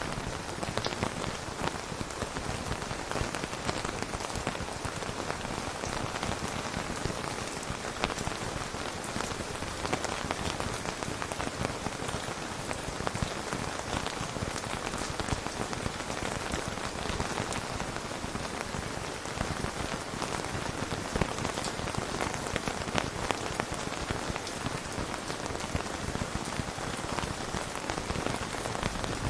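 Steady rain falling on a surface, an even hiss with the fine ticks of individual drops.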